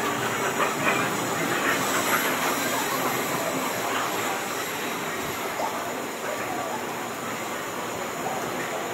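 Train running through the station, a steady rail rumble and hiss that slowly gets quieter.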